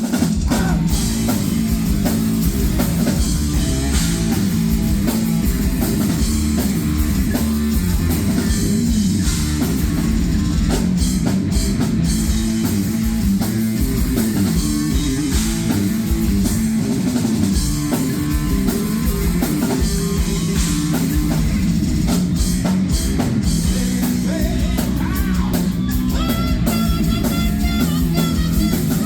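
Heavy metal band playing live: distorted electric guitars, bass and a pounding drum kit in a steady, loud groove. Near the end, a higher wavering melody line rises above the band.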